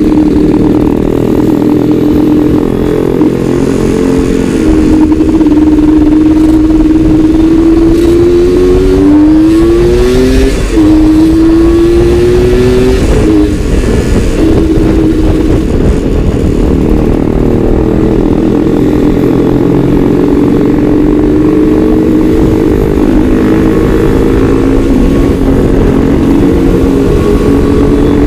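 Suzuki Satria 120 two-stroke single-cylinder motorcycle engine running under way, its note climbing under throttle and dropping sharply at gear changes a little over a third and about halfway through, then holding steady.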